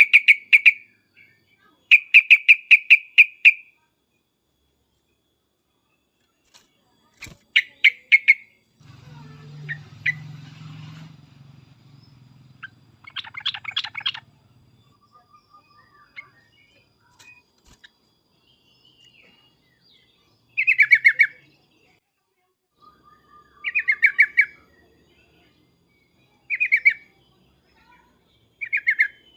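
Yellow-vented bulbul (trucukan) giving loud, rapid chattering 'cuk-cuk' phrases. Each phrase lasts about a second and comes every few seconds, the excited calls that keepers play to make a bulbul answer back.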